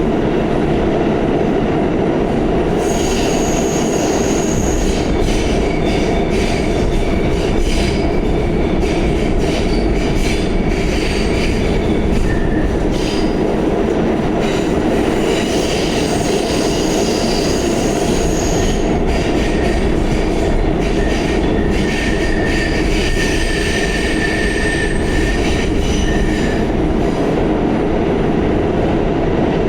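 Pullman-Standard R46 subway car running at speed, with a steady rumble of wheels on rail. Through the middle of the stretch there are many clicks over rail joints, and thin wheel squeals come and go.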